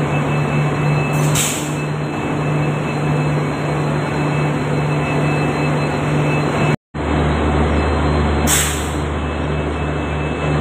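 Diesel locomotive passing close by, its engine running with a steady drone and a short burst of air hiss about a second in. After an abrupt cut near seven seconds, a deeper steady train rumble follows, with another air hiss near the end.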